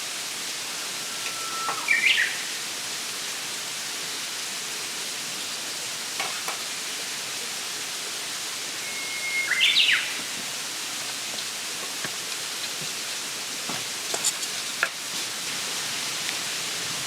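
A songbird singing twice, about eight seconds apart; each song is a held whistle followed by a quick higher flourish. A steady hiss runs underneath, with a few faint ticks in the second half.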